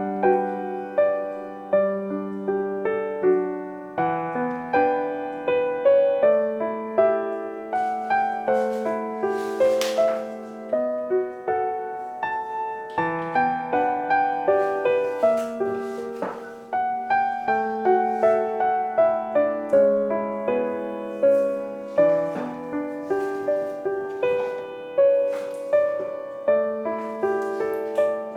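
Gentle background piano music: a soft, slow melody of single notes over sustained chords.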